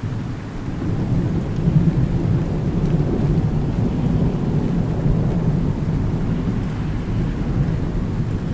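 A long, low roll of thunder over steady rain. The rumble comes in abruptly at the start and keeps going.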